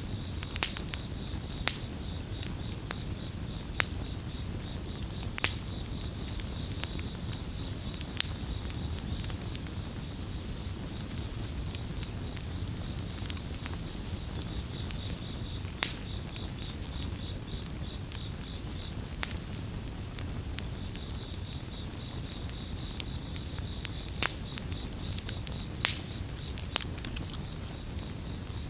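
Campfire crackling, with sharp pops scattered irregularly over a steady low rumble of burning wood. Crickets chirp in a fast, even, high trill that is clearest in the second half.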